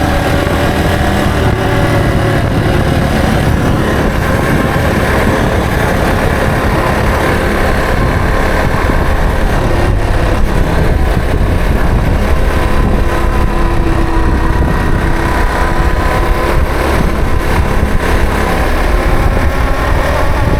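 Yamaha TW225's single-cylinder four-stroke engine running while riding, its pitch drifting gently up and down with the throttle, over a heavy low rumble.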